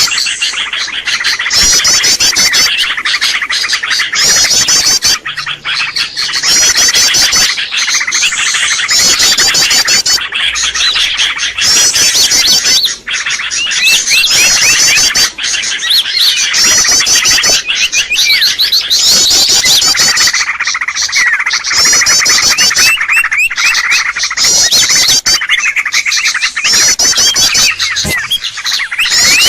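Bird-lure recording of many small birds chirping and calling at once in a loud, unbroken chorus. Short fast trills repeat about every second over steady busy chatter.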